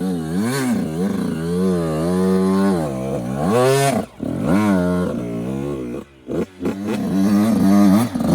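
Yamaha YZ85's two-stroke single-cylinder engine revving up and down as the dirt bike is ridden, its pitch rising and falling with the throttle. The sound drops off briefly about four seconds in and again about six seconds in.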